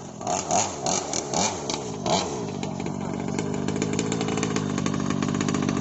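Small gasoline engine of a radio-controlled boat running on the water, its pitch rising and falling several times with the throttle for about two seconds, then holding a steady drone.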